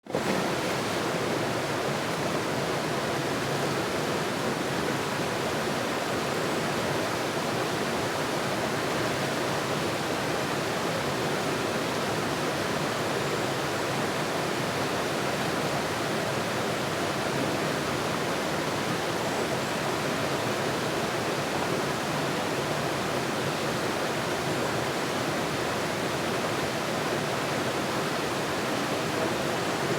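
Steady rushing water, an even hiss with no separate events.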